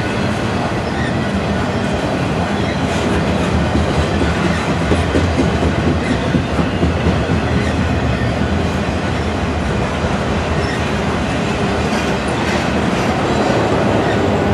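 Freight train of intermodal flatcars with containers and trailers rolling past close by: steady wheel-on-rail noise with clickety-clack clicks as wheels cross rail joints, over the low steady drone of diesel locomotives.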